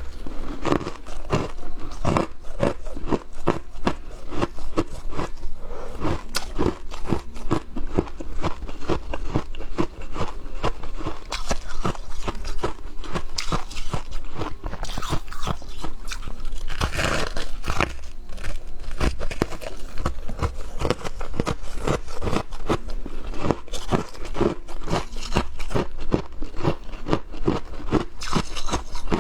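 Close-miked crunching of frost being bitten and chewed, a dense run of sharp crackly crunches with no pause, with a few brief hissy scrapes mixed in.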